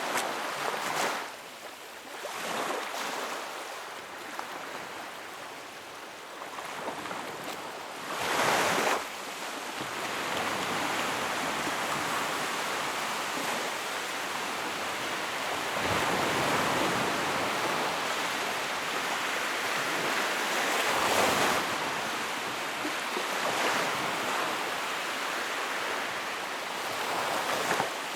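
Wood fire burning in a fireplace, a rushing noise that swells and fades several times, with a brief louder surge about eight seconds in.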